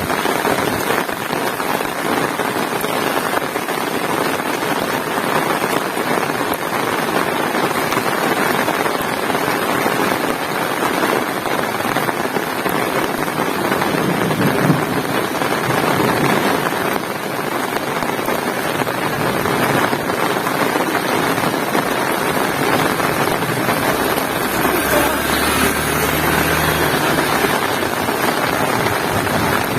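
Heavy rain falling steadily, a dense even hiss of drops. A brief low hum rises under it near the end.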